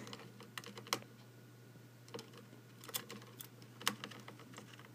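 A pet bird's beak pecking and tapping at calculator buttons: irregular sharp clicks, a few a second.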